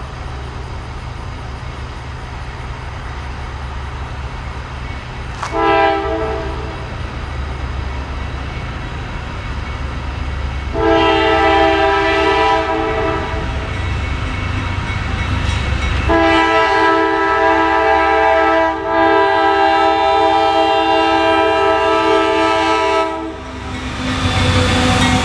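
Diesel freight locomotive sounding its horn over the steady rumble of its engines: a short blast about five seconds in, a longer blast around eleven seconds, then a long drawn-out blast with a brief break that ends near the end.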